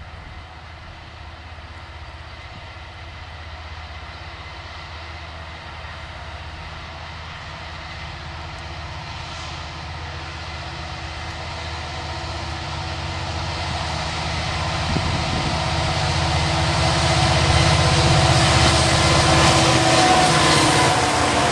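A pair of BNSF SD70MAC diesel-electric locomotives leading a coal train, approaching from a distance: a low engine drone that grows steadily louder. In the last few seconds a rushing wheel-and-rail hiss builds as the locomotives reach and pass.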